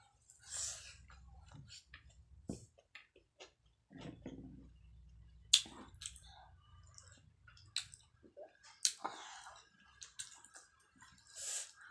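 Close-up eating sounds of a person eating rice and greens by hand: chewing with wet mouth and lip smacks and scattered sharp clicks, the loudest about five and a half seconds in.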